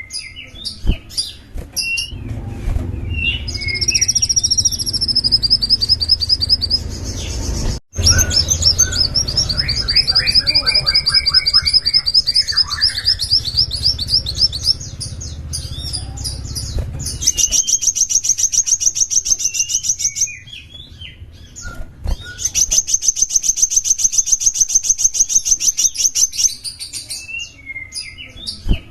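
A small songbird singing: long, fast trills of repeated high notes alternating with short chirps, broken by a brief dropout about 8 seconds in. A low rumble underlies the first half.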